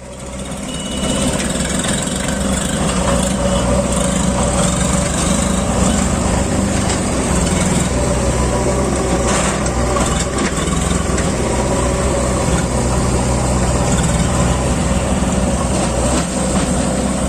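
Tractor diesel engine running steadily. The sound rises over the first second, then holds even.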